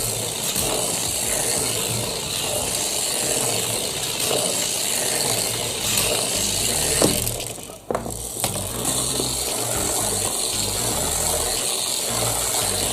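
Continuous mechanical clicking and rattling, like a small ratcheting mechanism being worked, dropping away briefly about eight seconds in.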